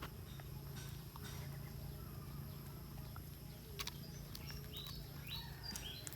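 A dog chewing bread, with scattered wet clicks and smacks over a steady low hum. A few short bird chirps come in past the middle.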